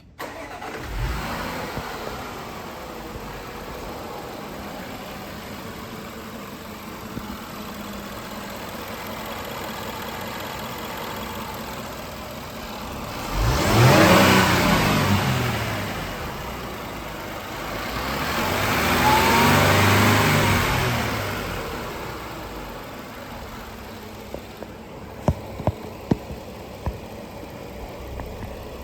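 A 2017 Land Rover HSE engine starts about a second in and settles into a steady idle. It is then revved twice, each time rising and falling back to idle. A few sharp clicks come near the end.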